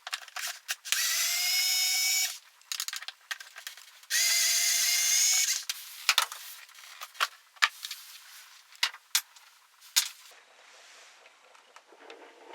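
Electric power tool running in two bursts of about a second and a half each, its motor whine rising slightly in pitch and then holding steady. Scattered sharp clicks and knocks of tools and parts being handled follow.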